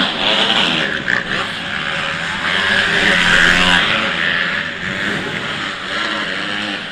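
Several motocross bikes' engines revving on the track, their pitch rising and falling as the riders work the throttle, swelling louder in the middle.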